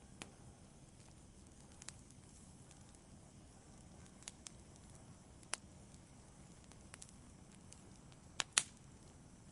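Wood fire in a fireplace crackling, with a low steady rumble and sparse sharp pops at irregular intervals. The loudest is a quick pair of pops near the end.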